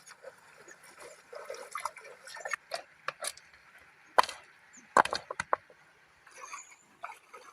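Irregular sharp knocks and clicks of hard objects being handled or struck, the two loudest about four and five seconds in, followed by a quick run of smaller clicks.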